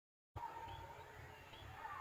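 Faint outdoor background with a low rumble and a small bird chirping three times, starting after a moment of dead silence.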